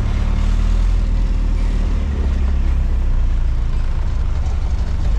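Cargo truck driving along the road: a steady low engine rumble with road and wind noise.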